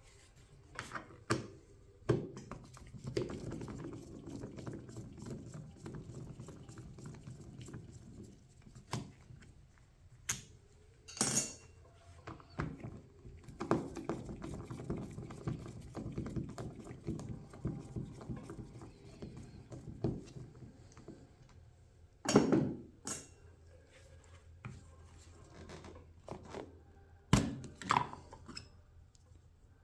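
Small metal parts and hand tools clinking and knocking on a workbench as a lawnmower carburetor is taken apart, with scattered handling noise and a few sharper knocks about two-thirds of the way through and near the end.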